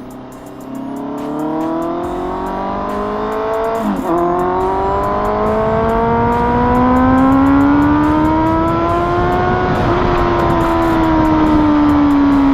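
Motorcycle with an SC Project aftermarket exhaust pulling away and accelerating. The engine note climbs, drops with an upshift about four seconds in, climbs again, shifts once more near ten seconds, then eases off slowly.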